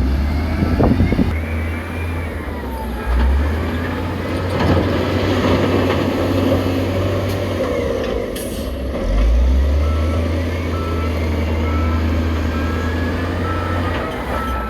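Heavy construction machinery's diesel engine running with a steady low drone and a few knocks in the first second. In the last few seconds a reversing alarm beeps about twice a second.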